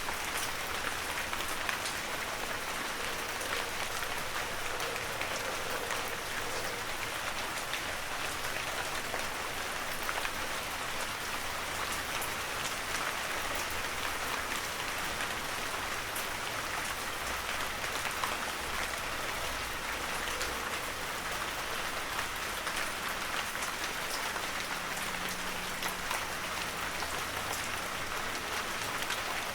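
Steady heavy rain falling, a dense even hiss with many individual drops pattering on surfaces.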